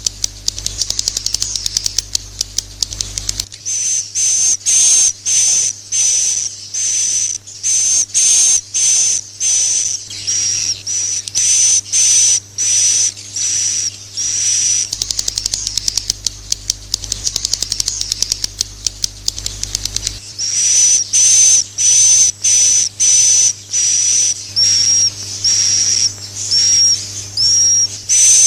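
Recorded edible-nest swiftlet calls from a roosting-call lure track of the kind played in swiftlet houses to draw birds in to roost: a dense run of rapid clicking chirps for the first few seconds, then short high chirping calls repeated about twice a second, over a faint steady low hum.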